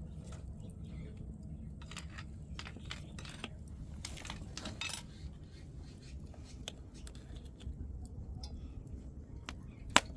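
Scattered light clinks and knocks over a steady low rumble, with one sharp, loud click near the end.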